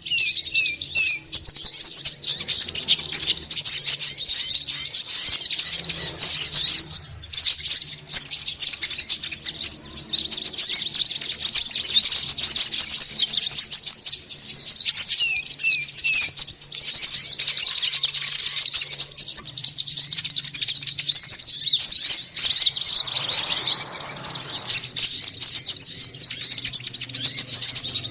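Bird-lure recording of small songbirds chattering in a dense, continuous, high-pitched flurry, used to call birds to a trap. A run of three short falling notes comes in near the start and again about halfway through.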